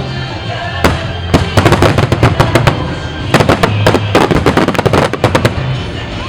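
Wide star mine fireworks barrage: many shells bursting in quick succession, several cracks a second, with music playing underneath.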